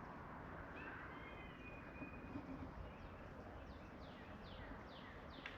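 Faint birdsong over quiet outdoor background: a thin whistled note about a second in, then a run of quick falling notes, about three a second, through the second half.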